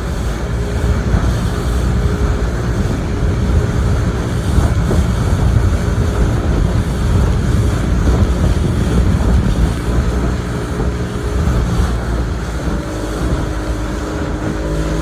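Motorboat engine running steadily while under way, under a heavy low rumble.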